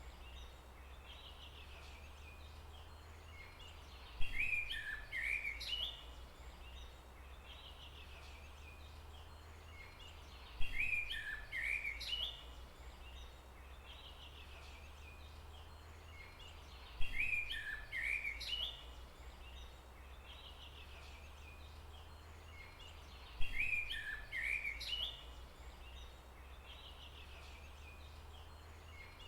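A songbird singing a short phrase of quick chirps lasting about two seconds, the same phrase coming back at even intervals four times, as from a looped recording. A steady low rumble runs underneath.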